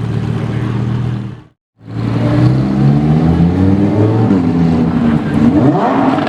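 A supercar engine running, steady at first, then cut off abruptly for a moment. When it resumes its pitch rises and falls as it is revved, climbing sharply near the end.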